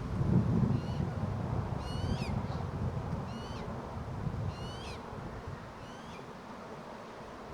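A bird calling repeatedly in the park: short calls that fall in pitch, about one every second and a quarter, two of them louder than the rest. A low rumble sits under the first half and fades away.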